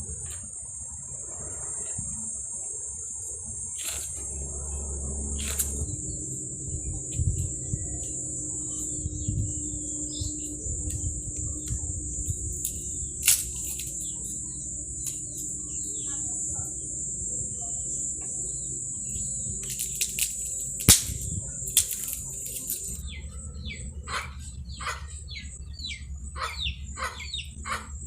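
Outdoor rural ambience: a steady high-pitched insect drone with birds chirping, the chirps coming thick and fast in the last few seconds. A few sharp knocks are scattered through it.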